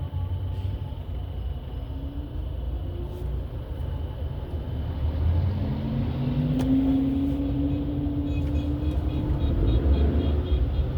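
A car driving, with a steady low road rumble. About halfway through, an engine note rises in pitch as the car accelerates.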